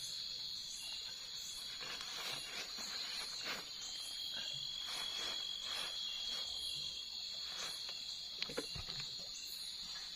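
Night insect chorus: a steady high cricket trill, with a higher chirp pulsing about twice a second above it, and a few soft scuffs and rustles.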